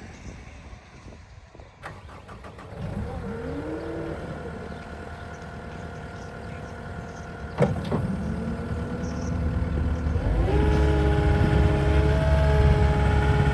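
Cat 259D3 skid steer's four-cylinder diesel engine starting about three seconds in and settling to a steady idle, with one sharp knock partway through. Near the end the engine is throttled up to a higher, louder steady speed.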